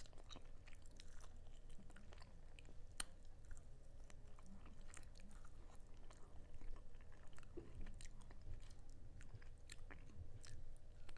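A person chewing a sticky, honey-Dijon-glazed chicken drumstick: faint, irregular wet mouth clicks.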